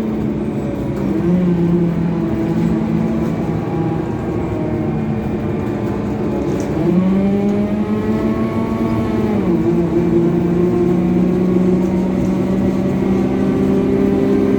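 Scania coach engine running under way, a steady droning hum; about halfway through its pitch jumps up, holds for a couple of seconds, then drops back to the earlier note.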